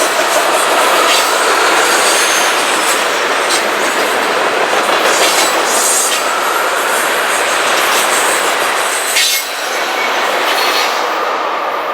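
A train's cars rolling past close by: a steady rumble and rattle of wheels on rail, with a faint squeal from the wheels and occasional sharp clicks at rail joints.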